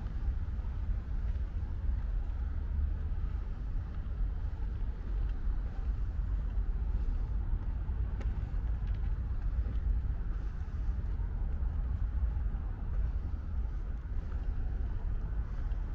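Steady low rumble of road traffic mixed with light rain, with a few faint ticks scattered through.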